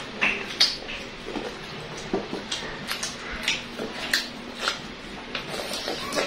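Close-up eating sounds of fried chicken eaten by hand: irregular wet chewing, lip-smacks and finger-licking clicks, several a second.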